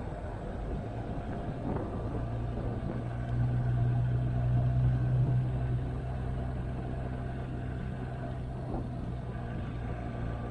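Motorcycle engine running at a steady pitch on the move. It gets louder for a couple of seconds about three seconds in, then settles back.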